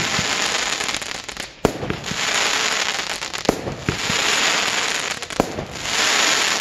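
Aerial fireworks going off: sharp bangs about every two seconds, each followed by a long crackling hiss as the gold-tailed stars burn out.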